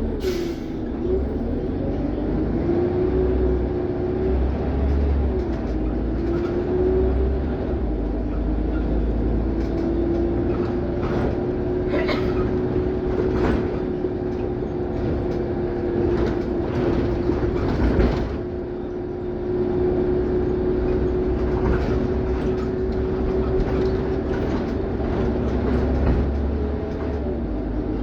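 Scania OmniCity CN94UB city bus under way, heard from on board: the drivetrain's whine wavers for the first few seconds, then holds a steady pitch over a deep rumble, with short rattles and knocks from the body, the loudest about eighteen seconds in.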